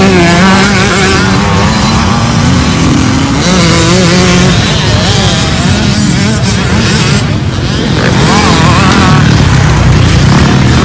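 Dirt bike engine running loud with its pitch rising and falling as it is revved.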